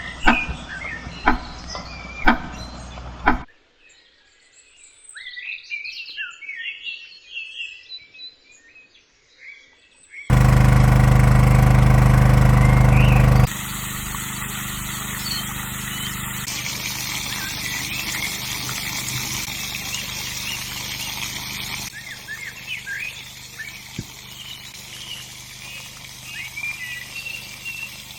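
Small birds singing and chirping, with a few sharp knocks in the first few seconds. About ten seconds in, a loud, steady, engine-like hum lasts about three seconds and cuts off. After it, a steady rushing noise runs on beneath the birdsong.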